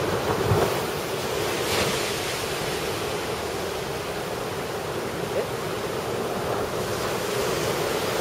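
Ocean surf from a typhoon swell breaking and washing ashore, a steady rushing with small surges near the start, with wind buffeting the microphone.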